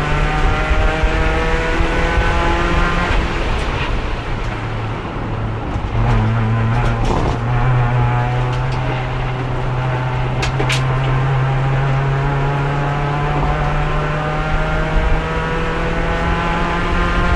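Race car engine under load in fourth gear with no gear changes. The pitch eases off about three seconds in as the throttle is lifted, then climbs slowly and steadily for the rest. The car is stuck in fourth because the worn-out transmission has lost third gear and won't shift at speed. A few sharp clicks or knocks come in the middle.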